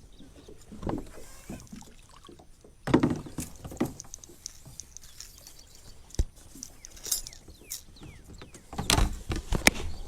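Irregular knocks, thumps and small splashes of handling in a kayak, loudest about three seconds in and again near the end.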